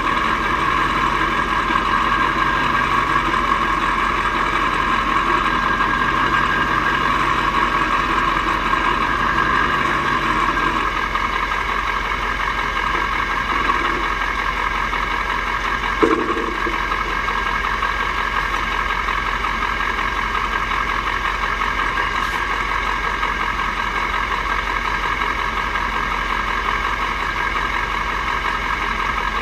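Mack R series V8 diesel truck engine running at a steady pitch, without revving, with one short knock about halfway through.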